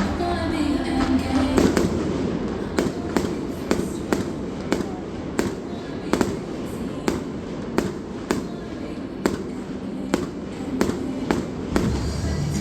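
Fireworks display: aerial shells bursting in a steady string of sharp bangs, about two or three a second.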